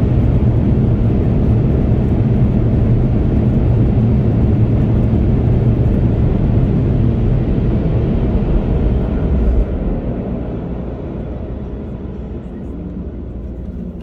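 Automatic car wash machinery running with a loud, steady roar. It drops suddenly about ten seconds in, then keeps fading.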